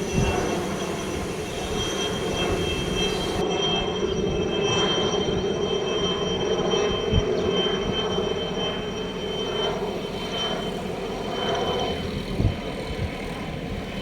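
Helicopter flying overhead: a steady engine drone with a faint high whine.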